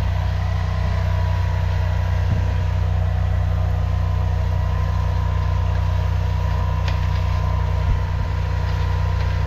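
High-pressure drain jetter's engine and pump running steadily as the jetting nozzle works through tree roots in a sewer line. It is a constant low engine hum with a thin steady whine above it.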